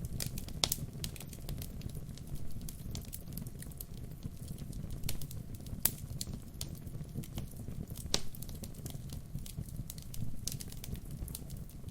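Wood fire burning: a steady low rumble of flames with irregular sharp crackles and pops of burning wood, a few louder pops standing out.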